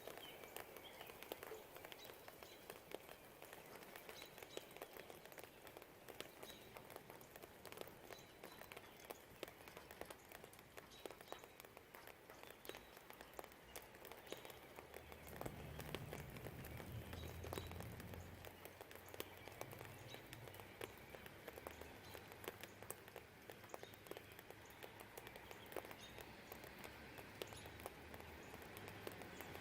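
Light rain pattering, with many individual drops ticking on surfaces, and faint bird chirps. About halfway through, a low distant rumble swells for a few seconds and fades.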